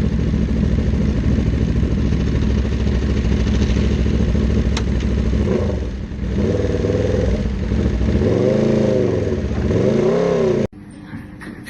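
Motorcycle engine running steadily under way, then revving up and down several times in the second half. The sound cuts off suddenly near the end.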